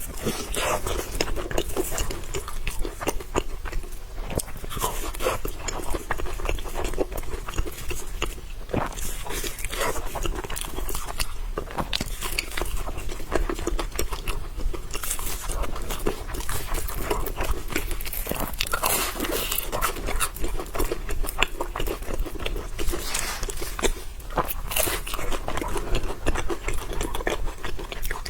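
A person chewing and biting food close to the microphone, with dense, irregular crunches and wet mouth clicks throughout.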